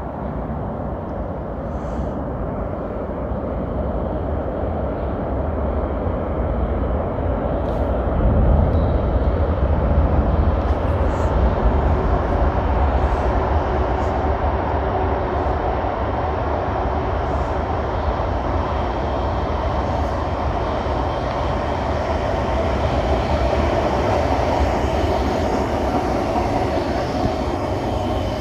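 Regional electric train (ŁKA 'Ł' service) running in through the tunnel of an underground station. Its low rumble builds, swells about eight seconds in and then holds steady as the train comes alongside the platform.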